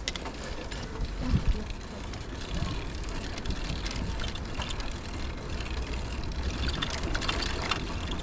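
Ride noise from a bicycle rolling along a path: a steady rumble of tyres and wind on the microphone, with small rattles and clicks and a couple of bumps a little over a second in.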